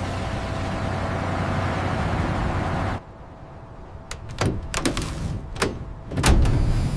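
A steady mechanical hum that stops abruptly about three seconds in, followed by a run of knocks and clunks, the heaviest thud near the end.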